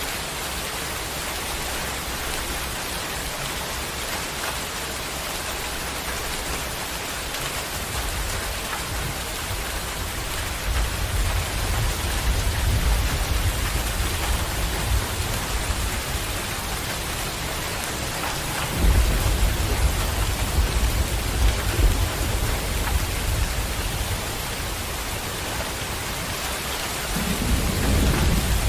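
Heavy rain falling steadily as an even hiss. Deep low rumbling swells in about a third of the way through, comes back louder around two-thirds in, and again near the end.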